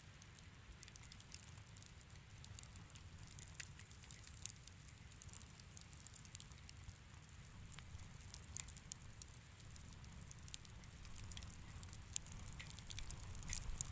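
Wood fire in a fireplace crackling softly: a steady scatter of small snaps and pops over a low, steady rumble, with one sharper pop near the end.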